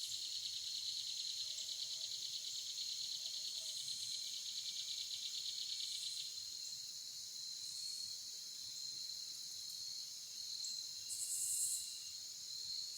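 Insects chirring in high steady layers, one fast pulsing trill dropping out about six seconds in, with a couple of brief high hissy bursts near the end.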